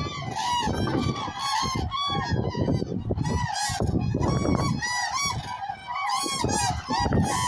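A large flock of common cranes calling: many loud, overlapping trumpeting calls, with a low rumbling noise underneath.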